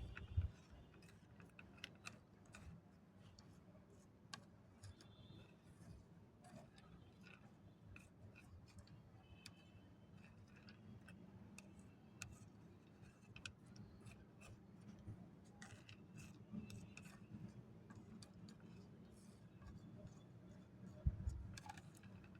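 Faint, irregular small clicks and taps over a low steady hum, with a short thump about half a second in and another near the end.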